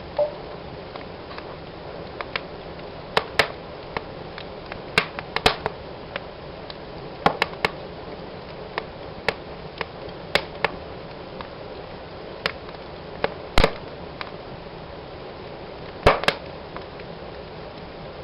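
Wood fire burning in a fireplace: a steady low hiss of flames with irregular sharp crackles and pops, a few louder snaps among them.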